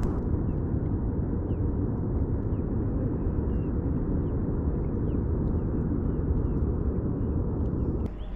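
Strong wind buffeting the microphone, a steady low rumbling roar, with faint short high chirps scattered over it.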